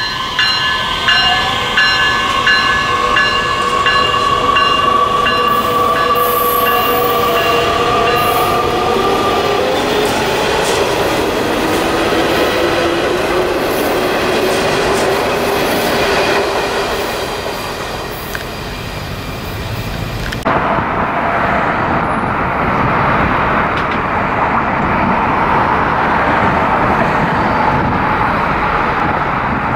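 A Metra Electric bilevel electric train running past at close range, with steady rail and wheel noise and a motor whine that falls in pitch over the first ten seconds. About two-thirds through, the sound changes abruptly to a steadier, more distant rushing noise.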